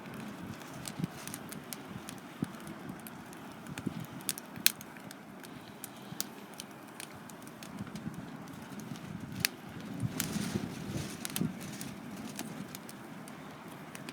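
Wood fire crackling, with sharp irregular pops and snaps of burning wood scattered throughout.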